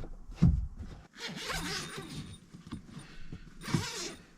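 A dull thump, then fabric rustling and zipper-like pulls, with a short louder pull near the end.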